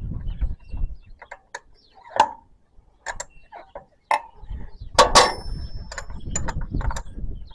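Sharp metal clicks and clinks of tools and parts being handled while the tractor's fuel line and filter fittings are taken apart. A louder metal clank about five seconds in leaves a brief high ring.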